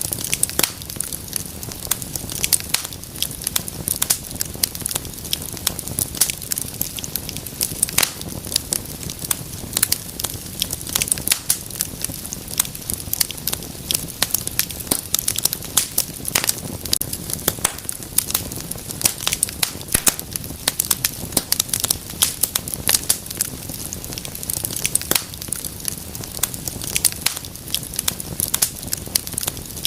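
Wood fire in a fireplace crackling, with dense, irregular sharp pops and snaps over a low rumble of burning.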